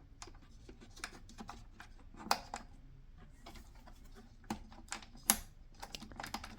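Scattered light plastic clicks and taps from handling the center console's plastic parts and pushing a wiring connector plug home, with sharper clicks about two seconds in and again about five seconds in.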